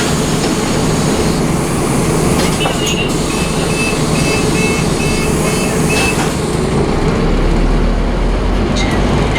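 Scania DC9 engine of a Scania OmniCity double-decker bus running hard, heard inside the bus as a loud, steady drone. A run of about six short high beeps sounds in the middle, and the low rumble deepens near the end.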